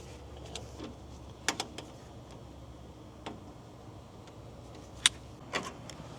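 A few scattered light clicks and taps of hand work as the lower radiator hose and its clamp are fitted in an engine bay, over a low steady hum.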